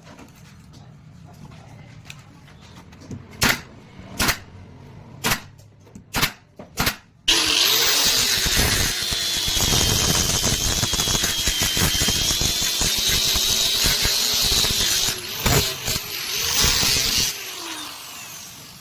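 Five or so sharp knocks, then a handheld power tool starts abruptly and runs steadily with a thin high whine for about ten seconds, cutting or sanding plywood, with a couple more knocks near the end before it stops.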